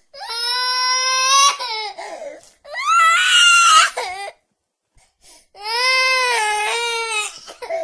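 A baby crying: three long cries with short breaths between them, the third beginning about five and a half seconds in.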